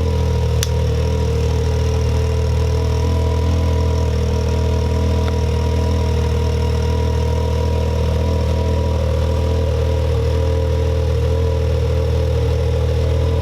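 Can-Am Maverick X3's turbocharged three-cylinder engine idling steadily through an Evolution Powersports full exhaust with the catalytic converter deleted. It sounds a little weird, which the owner puts down to the machine not having been started in 28 days. There is one sharp click less than a second in.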